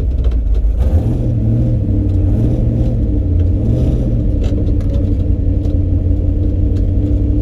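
Car engine running loudly at low revs with a deep exhaust note. About a second in the revs rise a little, then surge gently up and down.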